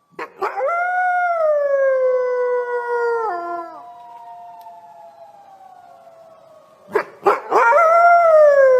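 Jackal howling: a long, clear howl that slides slowly down in pitch and drops off at the end after about three seconds. A fainter falling tone trails after it, then a couple of short sharp cries and a second howl begin near the end.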